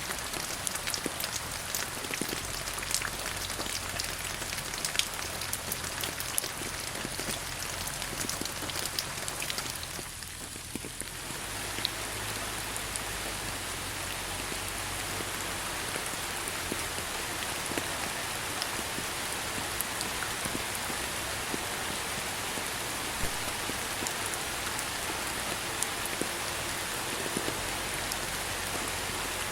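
Steady rain falling on surfaces, with many close drops ticking sharply over the wash. About ten seconds in the sound briefly thins, then settles into a smoother, even rush of rain.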